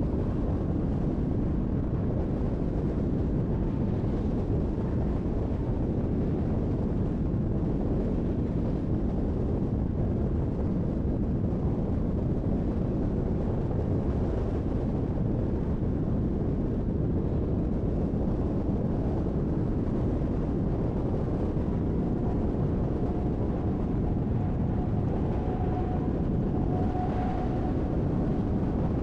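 Car driving steadily on a highway: continuous road, tyre and wind noise with no change in speed. A faint thin hum comes in near the end.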